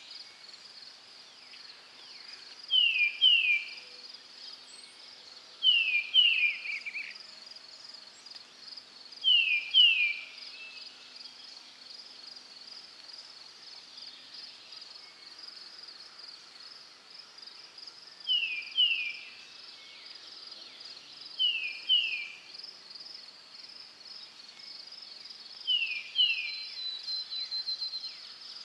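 Forest ambience: a bird repeatedly gives a pair of short down-slurred whistled notes, the pairs coming every three seconds or so with a longer pause in the middle. Under it runs a steady, high, pulsing insect chorus.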